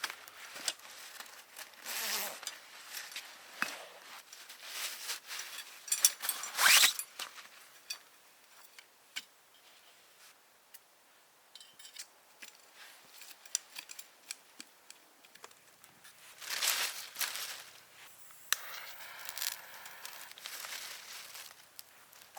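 Rustling and tearing bursts with scattered sharp clicks and crackles, like something being handled and torn open.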